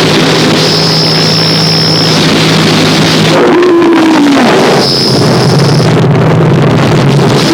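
Harsh noise music: a loud, dense wall of distorted noise over a steady low drone, with a thin high whine that cuts in and out and a downward pitch sweep about halfway through.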